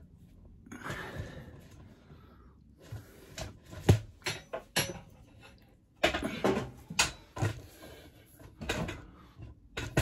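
Workshop handling noises: a scattering of knocks and clicks as parts and tools are picked up and set down, the sharpest knock about four seconds in.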